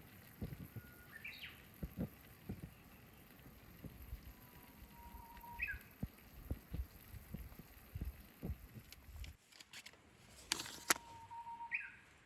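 A Japanese bush warbler (uguisu) sings three times, about five seconds apart: each song is a held whistle and then a short quick rising-and-falling flourish. Low knocks and handling sounds come and go underneath, with one sharp click near the end.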